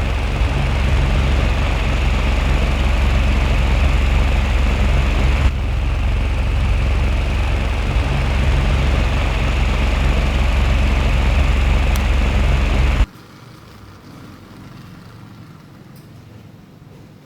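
Homemade mini ceiling fan, a small 5V motor turning four cardboard blades, running with a steady whirr and low rumble. The sound cuts off suddenly about 13 seconds in, leaving a faint hiss.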